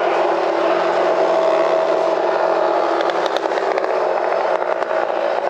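Steady outdoor background noise with a vehicle engine running at a distance, a faint even drone that holds for a few seconds in the middle.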